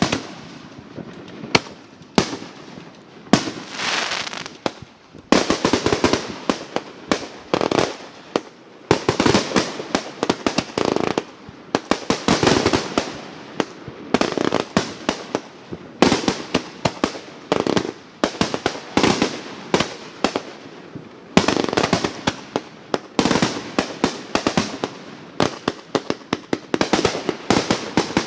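Fireworks going off: dense, rapid crackling pops in bursts lasting a few seconds, with short lulls between them.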